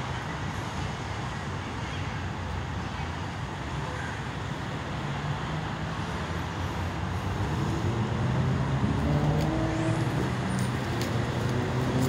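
Road traffic noise, with a vehicle's engine growing louder over the second half.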